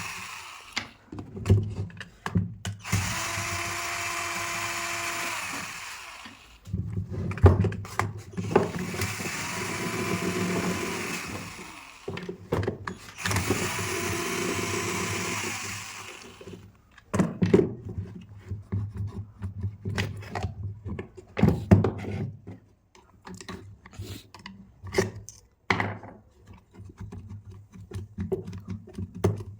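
An electric drill motor run four times in bursts of about three seconds, each time spinning up to a steady whine and then stopping. After that come scattered clicks and knocks of metal parts being handled.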